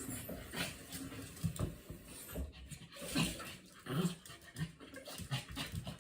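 Pomeranian whining and panting, impatient for its food, among short knocks and clatter.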